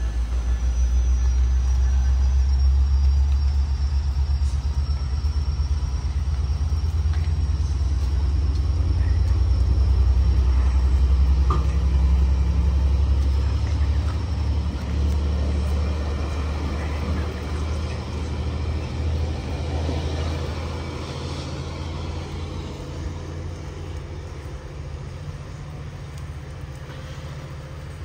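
Train passing with a heavy low rumble that swells to its loudest about ten seconds in, then slowly fades away.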